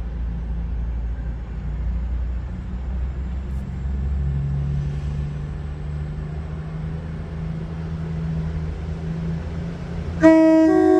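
Class 222 Meridian diesel multiple units running with a steady low diesel drone as they depart. About ten seconds in, 222-101 sounds a loud two-tone horn, a lower note then a slightly higher one.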